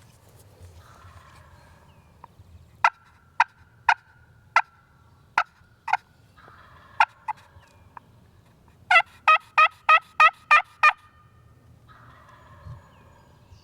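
Turkey calling: a string of loud, sharp single notes a little under a second apart, then a quick run of seven yelps. Fainter, rougher calls sound between them.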